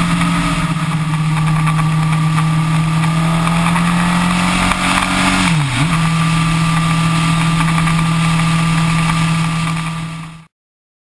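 Yamaha R1 inline-four engine running at a steady cruise with wind rushing past. A little past halfway the engine note dips sharply and comes straight back. Shortly before the end the sound fades briefly and cuts off.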